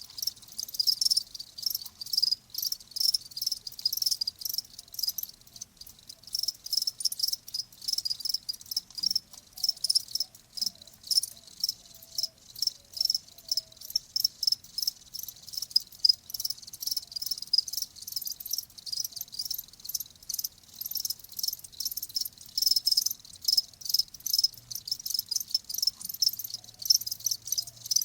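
Crickets chirping: a dense, high-pitched run of rapid pulsed chirps, going on steadily.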